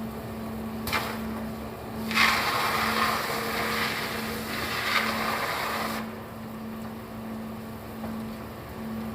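Stick welding arc: a brief crackle as the electrode is struck about a second in, then the arc crackling and sizzling steadily for about four seconds before cutting off, over a steady machine hum.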